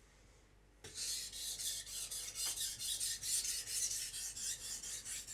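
Steel knife edge being sharpened on a Naniwa Chosera 400-grit whetstone: quick, rhythmic back-and-forth scraping strokes, starting about a second in. The strokes are raising a burr along the edge.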